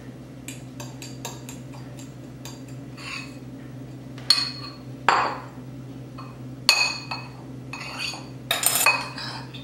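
A utensil knocking and scraping against a bowl, with irregular clinks, while mashed baked potato is mixed with diced shallot and shredded cheese. The sharpest clinks come about four, six and a half and nine seconds in.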